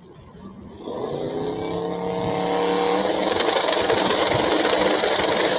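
Two drag-race cars launching and accelerating down the strip: the engines come in sharply about a second in and keep climbing in pitch and loudness.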